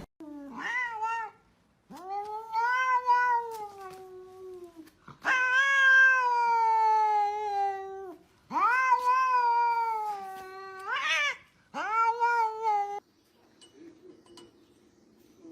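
Domestic cat giving five long, drawn-out meows, each rising at the start and then sliding slowly down in pitch. The longest last about three seconds. The fourth ends with a sharp upward lift. The calls stop about two seconds before the end.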